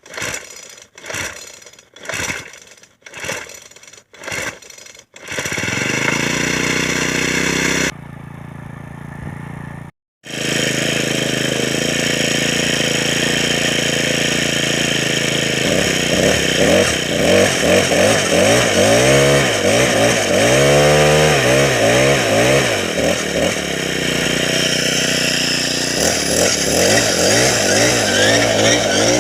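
Craftsman 30cc four-stroke string trimmer engine cold-started by pull cord: several quick pulls, then it catches about five seconds in and keeps running. In the second half the throttle is blipped, so the engine revs up and down repeatedly.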